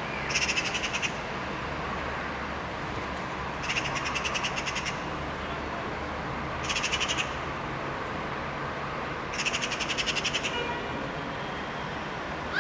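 A bird gives four bursts of rapid, rattling chatter, each about half a second to a second long and a few seconds apart.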